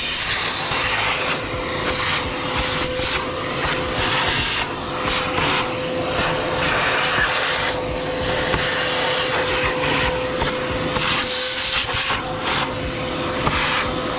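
Shop vac running steadily with a constant motor whine, its nozzle sucking dirt out of an engine air filter housing; the rush of suction rises and falls as the nozzle is moved around.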